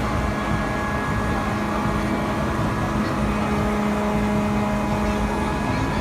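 Steady machine hum over a low rumble, with a held tone that strengthens slightly about halfway through, typical of a pirate-ship ride's drive machinery running.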